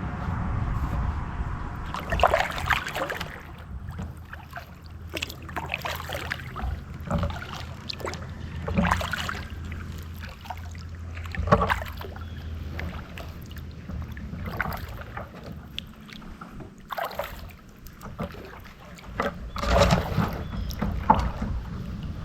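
Kayak paddle strokes in the water, each a short splash, coming every second or few. Under them runs a steady low rumble.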